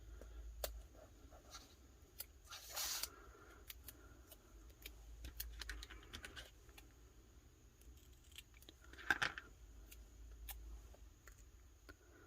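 Faint handling of paper and craft supplies on a desk: scattered light clicks and rustles, with a short scrape about three seconds in and another around nine seconds.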